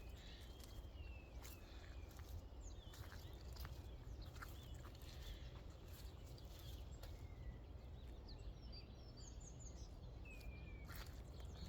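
Birds calling faintly, with short whistled glides and a quick run of high chirps about eight seconds in, over a steady low outdoor rush. A few sharp clicks come through now and then.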